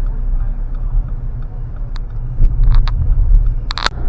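Car driving, heard from inside the cabin: a steady low rumble of engine and road, with a few short sharp clicks in the second half.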